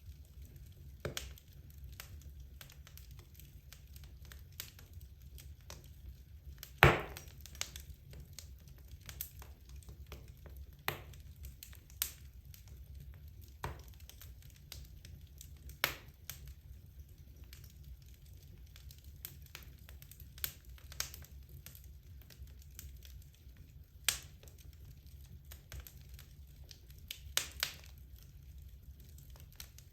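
Wood logs burning in a fireplace, crackling: scattered sharp pops and snaps over a low steady rumble of the fire, with one loud pop about seven seconds in.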